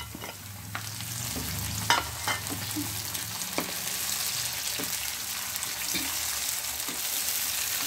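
Chopped tomatoes and sliced onions sizzling steadily in hot oil in a frying pan as the tomatoes go in and are stirred. Short sharp clicks and knocks of a utensil against the pan punctuate the sizzle, the loudest about two seconds in.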